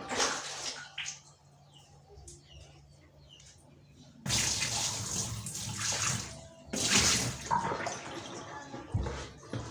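Water running and splashing into a washing machine being cleaned, in two spells of about two seconds each that start about four seconds in, with a brief splash at the very start.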